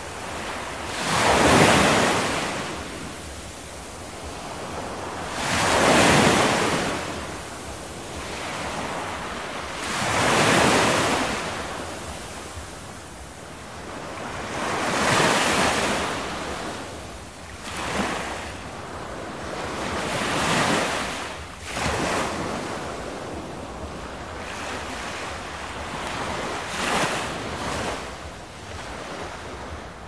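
Rushing noise that swells and fades in slow surges: four big ones about every four to five seconds in the first half, then smaller, quicker ones.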